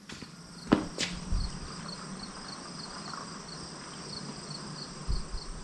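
Insects, likely crickets, chirping steadily at about three chirps a second, with two sharp clicks about a second in.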